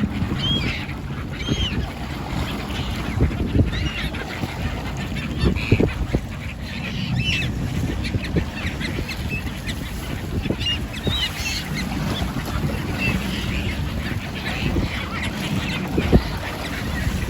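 A flock of birds calling, many short arched cries overlapping again and again, over a steady low rumble.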